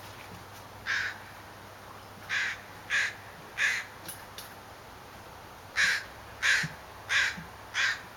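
Harsh bird calls, each short: one call, then three about two-thirds of a second apart, then after a pause four more at the same pace.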